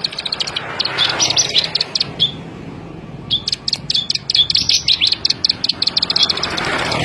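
Ciblek sawah (a small prinia-type bird) singing in fast runs of short, high ticking notes. One run comes in the first second and a half, then a brief pause, then a longer, denser run from about three seconds in.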